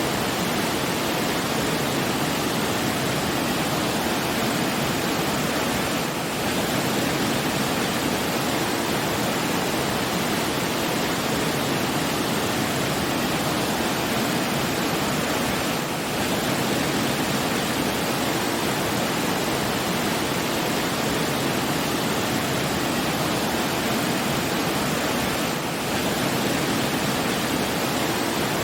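Steady rushing of water, an even hiss with no distinct events, dipping slightly in loudness about every ten seconds.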